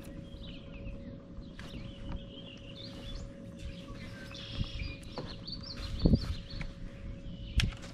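Songbirds chirping and singing along the shoreline, with a faint steady hum underneath. A couple of short low thumps sound about six seconds in and again near the end, the first the loudest.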